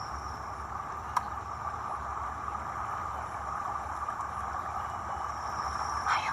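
Steady rush of flowing river water, with one faint click about a second in.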